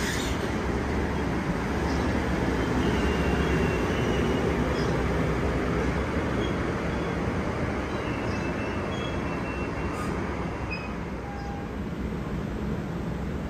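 A train running past on the rails: a steady rumble that swells a few seconds in and eases off slightly toward the end.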